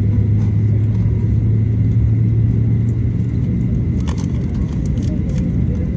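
Boeing 737-800 cabin noise: a steady low rumble from the engines and airframe, with a low hum that fades out about three seconds in and a few light clicks near the end.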